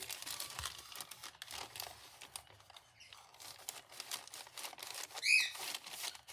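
Paper rustling and crinkling as a handmade paper junk journal and its paper pieces are handled, with many small rustles and taps. A short high squeak stands out about five seconds in.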